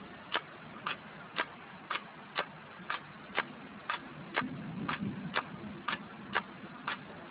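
Car turn-signal or hazard-light relay ticking steadily, about two clicks a second. A low rumble swells and fades in the middle.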